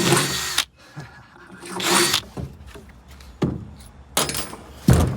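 Power drill running, cutting off sharply under a second in. Scattered knocks and handling noises follow, the loudest a heavy thump near the end.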